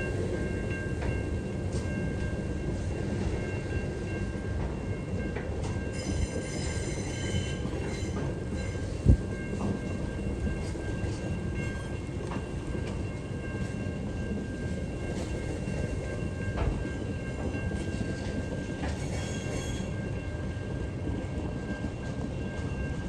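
Freight train wagons rumbling past on a curve, with a steady high-pitched squeal from the wheels against the rails and two short stretches of sharper, higher squeal. A single sharp bang about nine seconds in.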